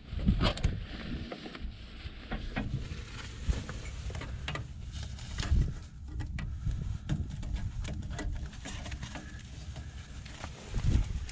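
Irregular clicks, knocks and rustling from hand work on a snowblower, over a low rumble.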